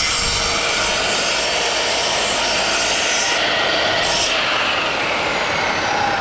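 Makita dust extractor switched on and running steadily, pulling air through a homemade waste-pipe hose connection on a sliding mitre saw.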